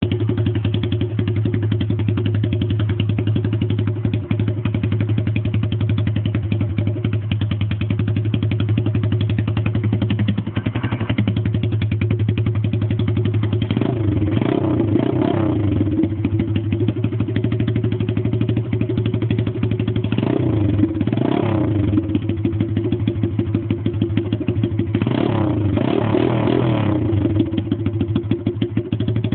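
110cc four-stroke pit bike engine running with its racing exhaust can off, straight out of the open header pipe. It holds a steady idle, with short throttle blips about four times where the pitch rises and falls.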